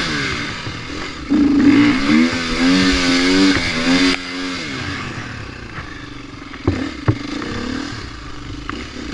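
Dirt bike engine revving in uneven bursts with its pitch rising and falling, loudest for a few seconds in the first half, then settling to a lower run. Two sharp knocks come close together about two-thirds of the way through.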